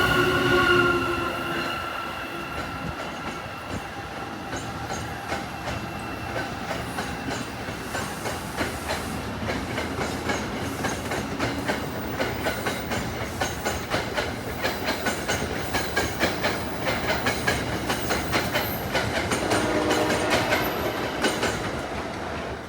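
Next-generation Acela trainset passing: its horn fades out and drops in pitch at the start, then a long run of wheel clicks over the rail joints as the cars go by, with a brief pitched sound again near the end.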